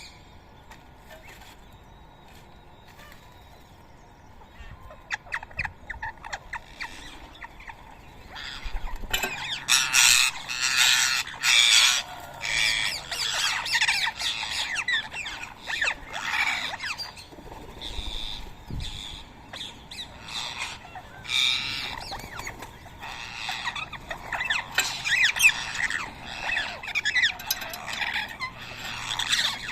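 A flock of rose-ringed parakeets squawking: harsh, overlapping screeches. The calls are sparse at first and become a dense, continuous chorus about a third of the way in.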